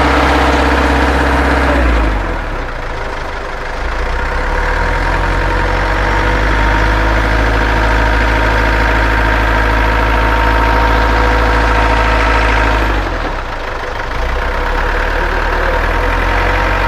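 A boom truck's engine running to power the boom's hydraulics, with a steady whine above the engine note. It drops back about two seconds in and picks up again a couple of seconds later, then does the same once more near the end, as the controls are worked.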